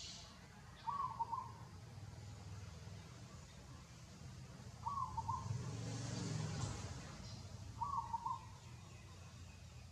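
A bird gives a short call three times, a few seconds apart. A low rumble swells and fades in the middle.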